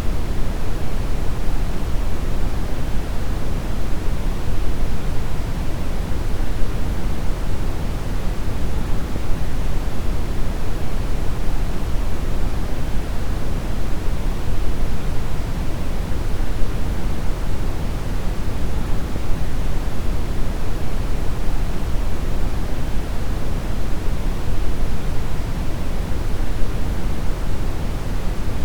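Steady synthetic brown noise: an even, deep rumbling hiss, strongest in the bass and fading toward the treble, with no changes.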